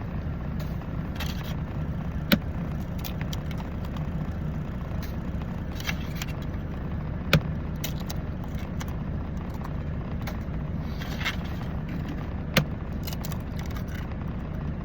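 Eggs being cracked against the rim of a cup, one after another: three loud sharp cracks about five seconds apart, with fainter taps and shell sounds between them. Under them runs a steady low rumble in the semi truck's cab.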